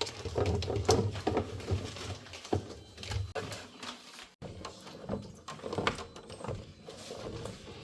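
Irregular light knocks, clicks and rustles of food items and packaging being handled and set down, over a low steady hum.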